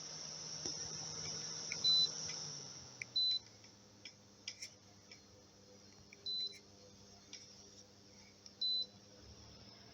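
Midea MDF24JRW table fan beeping at its controls: four short, high beeps a few seconds apart. Under them is a faint motor hum and air hiss, which drop lower about three seconds in as the fan slows.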